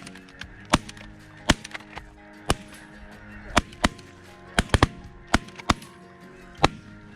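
Volley of shotgun blasts from several hunters shooting at snow geese: about a dozen sharp shots at uneven spacing, some fainter than others, over steady background music.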